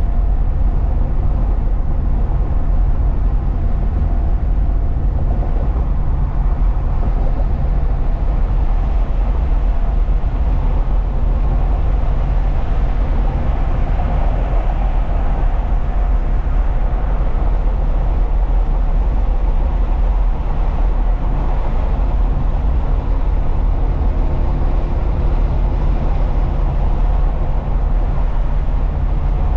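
Truck driving along: a steady low rumble of engine and road noise heard from inside the cab.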